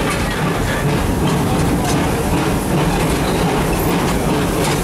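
Narrow-gauge park train rolling steadily along its track, heard from an open passenger car: a continuous rumble with a few faint clicks of the wheels over the rails.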